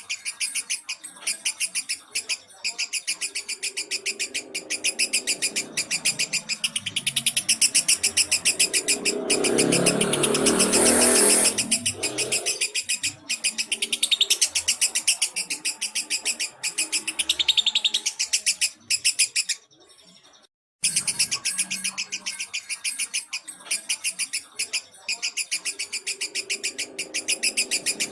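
Lovebird singing a long, unbroken run of rapid high chirps, the kind of song used as masteran to provoke and train other lovebirds. The song swells louder and fuller about ten seconds in, breaks off briefly about twenty seconds in, then starts again.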